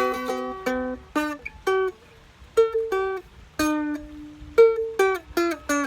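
Seagull Merlin, a dulcimer-style string instrument, played solo. It opens with a ringing strummed chord, then single picked notes and short phrases with brief pauses between them.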